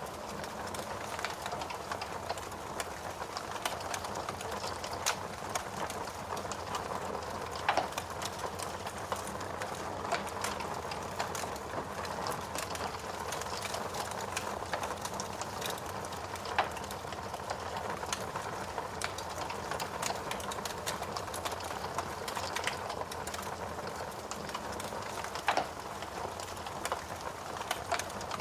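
Steady rain with a wood fire crackling, sharp pops scattered through it, the loudest about eight seconds in, near the middle and a few seconds before the end.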